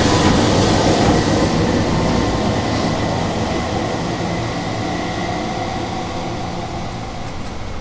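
Train passing: a steady rail rumble with faint squealing tones, slowly fading as it goes by.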